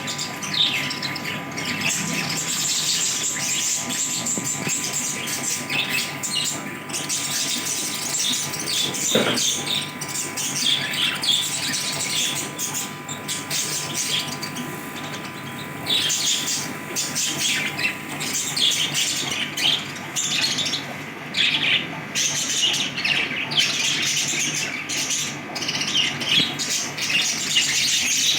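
Pet lovebirds chirping and chattering, a dense stream of short high chirps that never lets up.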